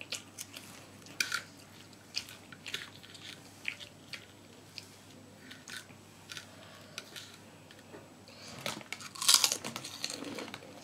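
A person chewing food close to the microphone, with scattered short crunches and a louder spell of crunching about nine seconds in.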